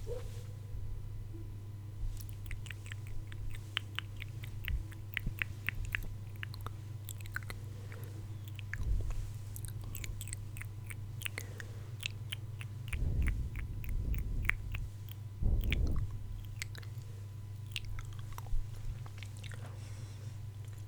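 Close-miked ASMR mouth sounds: quick, wet mouth clicks and smacks in irregular runs. There are two soft low thumps in the middle, all over a steady low hum.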